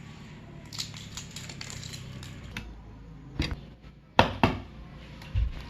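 Kitchen clatter of cookware and utensils: a few sharp clacks and knocks, two of them loud about four seconds in, over a low steady hum, with dull thumps near the end.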